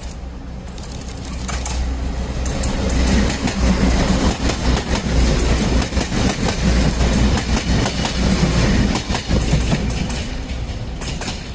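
Taiwan Railway diesel railcar passing close by: its diesel engine hums low while the wheels click rapidly over the rail joints, getting louder as it approaches and fading a little near the end.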